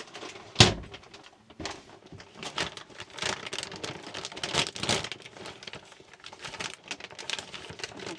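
Handling noises: one sharp knock about half a second in, then scattered clicks, taps and crinkling.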